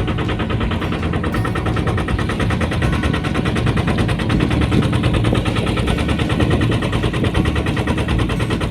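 Small boat's engine running close by: a fast, even chugging of rapid knocks that never lets up.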